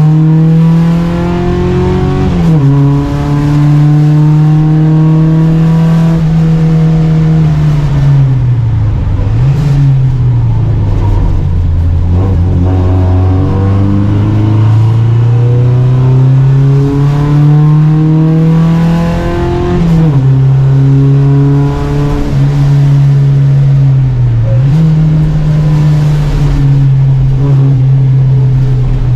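Volvo Amazon 121 race car's four-cylinder engine at racing speed, pulling hard through the revs. Its pitch climbs steadily, then falls sharply at the gear changes, about two seconds in and again near twenty seconds, with shorter dips and recoveries in between.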